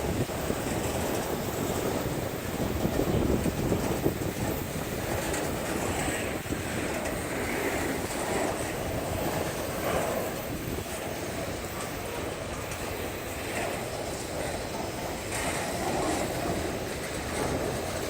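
Autorack freight cars of a CSX train rolling past: a steady rumble of steel wheels on the rails, swelling and easing slightly as the cars go by.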